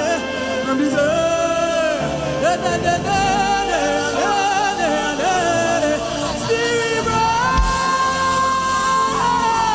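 Gospel worship singing over instrumental backing, with a long held note near the end.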